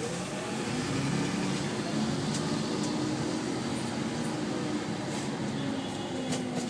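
Heavy rain falling steadily with a few scattered sharp ticks, over the hum of road traffic.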